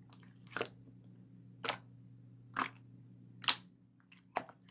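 Five short, sharp clicks about a second apart over a low, steady electrical hum.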